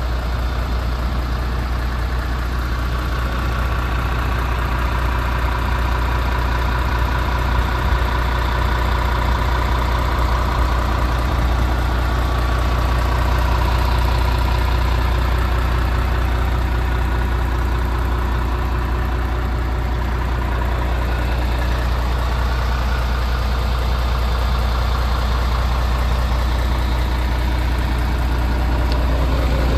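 MAN TGX 26.470 truck's 470 hp Euro 6 diesel engine idling steadily, a deep even running sound with no revving.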